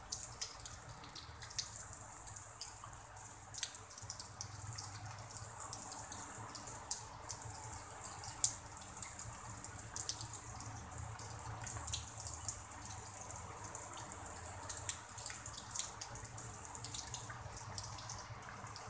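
Light drizzle falling onto a small pond and the grass around it: a steady hiss of rain with many small, scattered drop ticks.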